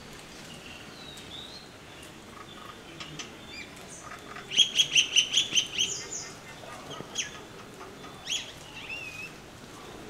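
A bird calling: a quick, loud run of about nine even, high notes, followed near the end by a few short separate chirps.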